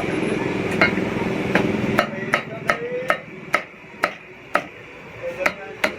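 Cleaver chopping roast meat on a wooden block: about a dozen sharp knocks, irregular, roughly two a second.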